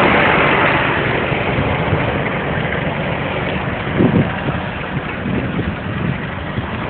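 Engine running steadily, gradually getting quieter, with a couple of short knocks about four seconds in.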